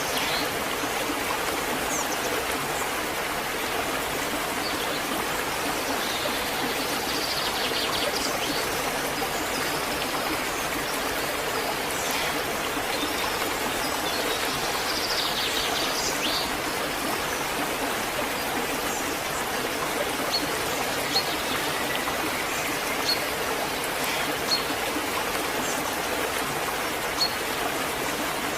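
Waterfall: a steady rush of falling water, with brief splashes now and then and a few small drip-like ticks in the second half.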